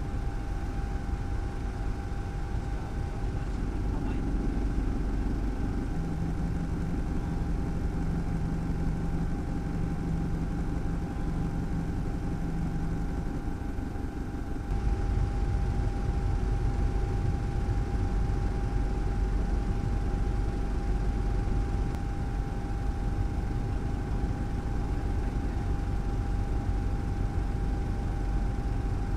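Steady low rumble with a constant hum, like a running motor; it shifts and gets louder about fifteen seconds in.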